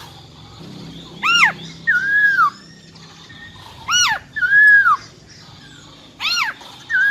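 Female black-throated laughingthrush calling: three pairs of notes, each a short arched, rising-and-falling note followed by a longer level whistle that drops away at its end, repeating about every two and a half seconds.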